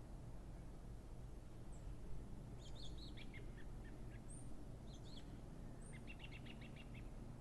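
Small birds chirping, with a quick trill of about eight notes about six seconds in, over a steady low rumble.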